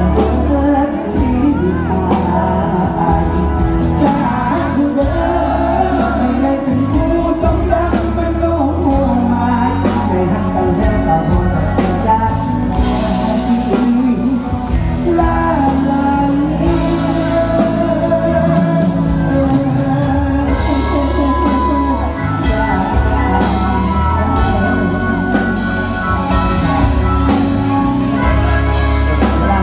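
Live Thai luk thung / mor lam band music played loud, with a steady driving beat, heavy bass and a singing voice over it.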